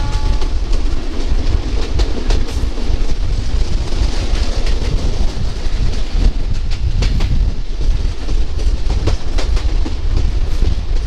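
Local passenger train running along the track, heard from on board: a steady low rumble and rush with irregular clicks and clacks of the wheels over rail joints. A horn note cuts off just as it begins.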